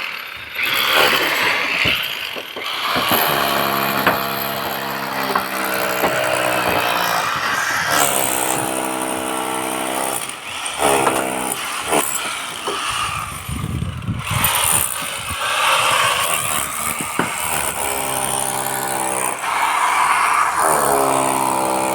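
Electric hammer drill running in repeated bursts of one to three seconds, stopping briefly between them, its motor holding a steady pitch.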